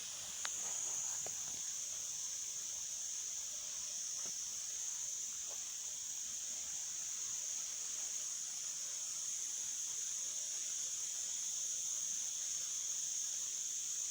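A steady, high-pitched insect chorus with a constant shrill buzz, plus a few faint ticks in the first few seconds.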